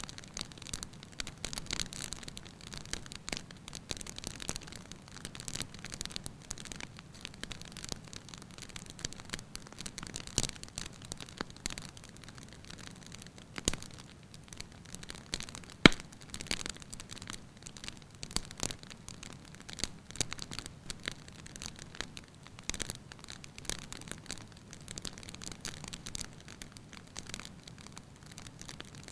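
Wood fire crackling in a fireplace: a steady soft hiss dotted with irregular small crackles and pops, with one sharp, much louder pop a little past the middle.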